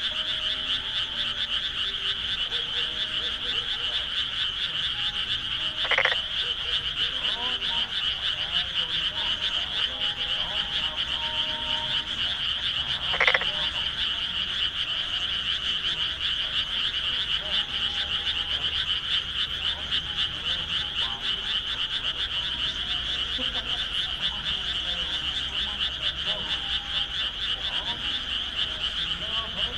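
A dense, continuous chorus of many frogs calling together, with two short louder sounds standing out, about six and thirteen seconds in.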